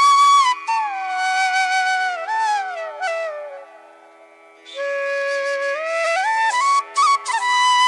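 Background music: a solo flute plays a slow melody that slides between notes, over a faint steady drone. The flute drops away for about a second near the middle, then comes back.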